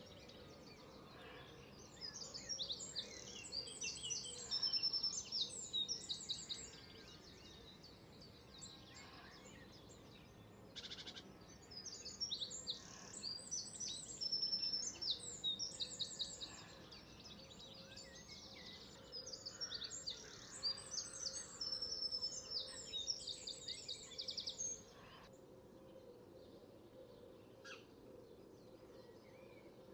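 A songbird singing: three long bouts of rapid, high notes and trills, each lasting about five seconds, with pauses between them.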